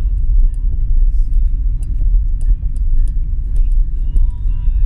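Steady low rumble of a vehicle travelling along a wet city road, with scattered sharp ticks throughout.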